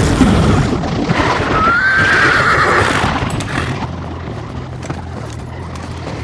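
A horse neighing, one long wavering cry about a second and a half in, over a loud rumbling that settles into a steady low drone.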